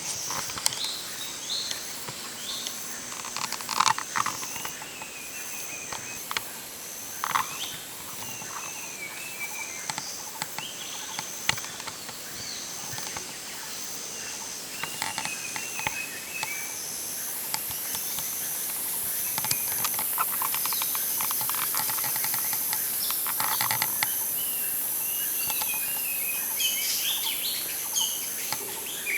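Jungle ambience: birds chirping in short phrases over a high insect note that pulses about once a second. About halfway through, a steady high insect buzz joins in. A few sharp rustles or knocks stand out now and then.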